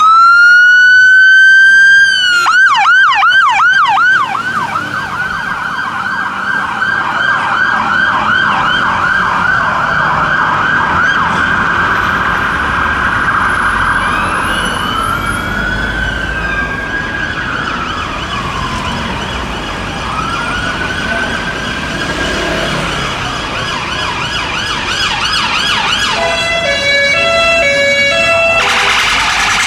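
Emergency vehicle sirens on a fire engine and a police car. One siren winds up at the start and switches to a fast yelp about two seconds in. A second siren wails in slow rising and falling sweeps in the middle. Near the end a rapid stepped warbling tone takes over.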